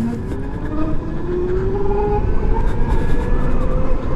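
Zero SR electric motorcycle's motor whining, rising slowly in pitch and getting louder as the bike accelerates, over a steady low rumble.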